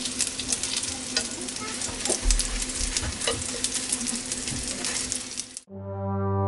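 Egg-wrapped rice pieces frying in oil in a nonstick pan, sizzling steadily, with light clicks of chopsticks turning them. About five and a half seconds in the sizzle cuts off and music with held notes begins.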